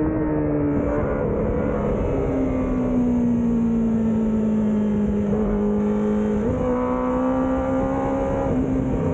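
Onboard sound of a Kawasaki ZX25R's 249 cc inline-four engine running at steady mid revs under way. Its pitch sags slowly, dips about a second in and steps back up about six and a half seconds in.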